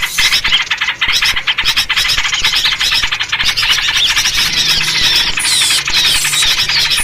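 Dense chorus of small songbirds chattering and squawking rapidly, with repeated short downward-sliding whistled notes in the second half. It is a noisy mixed-bird call track of the kind played to lure wild birds.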